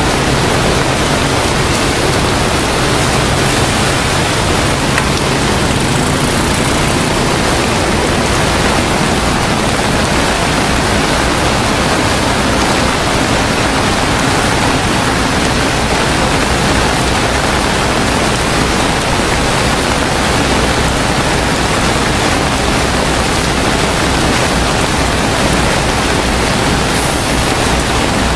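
Steady, loud rush of water, an even hiss with no breaks.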